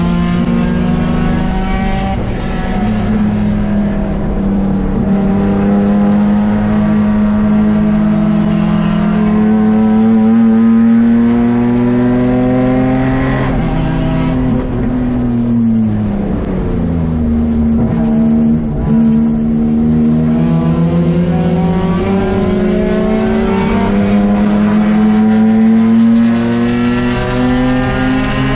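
BMW 635CSI's 3.5-litre straight-six under hard throttle, heard from inside the stripped, roll-caged cabin. The engine note climbs slowly for most of the first half, drops steeply about halfway through, then climbs again.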